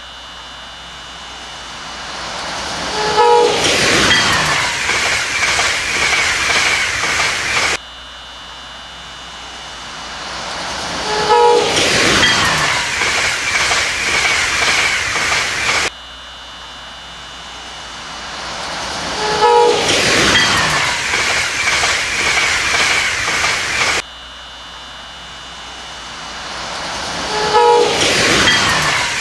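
Train approaching and passing at speed: it builds up, gives a brief horn sound, drops sharply in pitch as it goes by, then carries on with the rush and clatter of the cars. The same eight-second passby is looped four times, each repeat starting with an abrupt cut.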